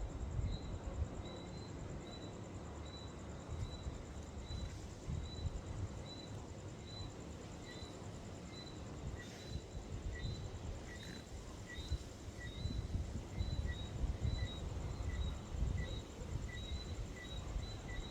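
Outdoor ambience of small creatures chirping: one caller repeats short high chirps at a steady pace, and about halfway through a second, lower-pitched caller joins in with its own regular chirps. A faint steady high buzz sits above them, and an uneven low rumble runs underneath.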